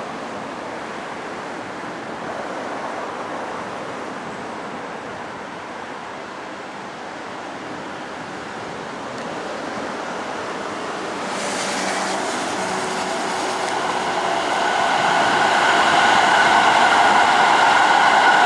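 Electric commuter train running along the track: a steady rush of wheel-on-rail noise that grows louder. About twelve seconds in the sound brightens, and a whine of several steady tones joins it as the train passes close.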